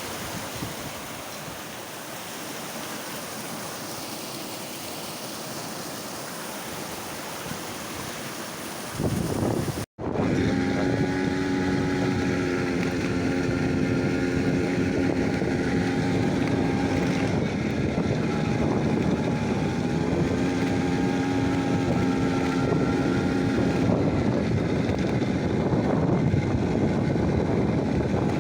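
Steady rushing noise like water or wind for about ten seconds, cut off abruptly. Then a louder steady hum with several held tones over rushing noise.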